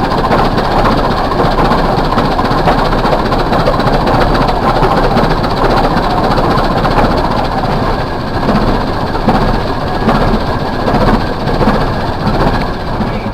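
Large antique gas tractor engine running steadily.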